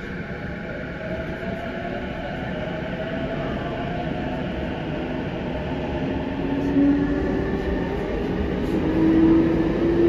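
E233-5000 series electric commuter train running, heard from inside the passenger car: a steady rumble of wheels on rail with a motor whine that rises in pitch during the first few seconds as the train gathers speed, then holds a steadier whine, growing gradually louder.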